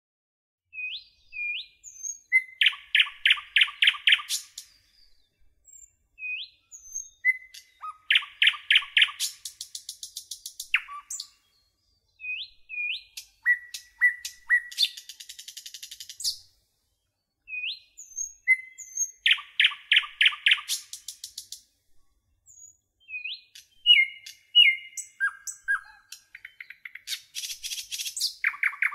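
A songbird singing the same song phrase over and over, about every five to six seconds. Each phrase is a few short chirps, a run of loud repeated notes, then a fast high trill.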